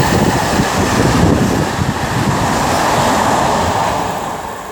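Train passing close by at speed: a loud rush of wheel and air noise that fades away near the end.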